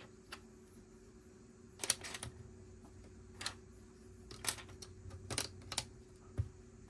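Plastic Lego pieces clicking and clattering as they are handled and pressed together: scattered sharp clicks, bunched near two seconds and again between about four and a half and six seconds, then a dull knock.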